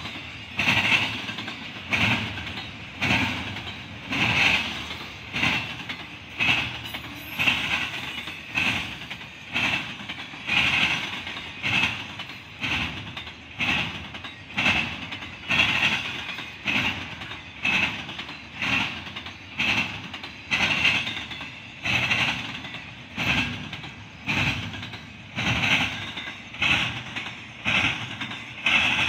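Double-stack intermodal container train rolling past, its wheels clacking over the track in a steady rhythm of about one loud clatter a second over a continuous rumble.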